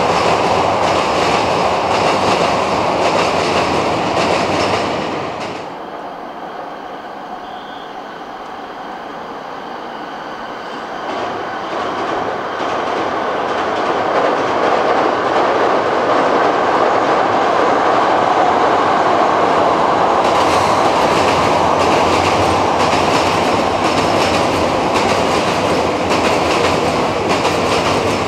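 Keikyu electric train running across a steel truss railway bridge: wheels clacking over the rail joints with a steady rumble from the bridge. The sound drops suddenly about five seconds in, then builds again from about eleven seconds as another train crosses, and stays loud.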